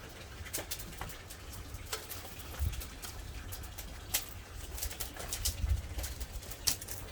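Dry firewood burning in an open wood fire, crackling with sharp, irregular pops and snaps.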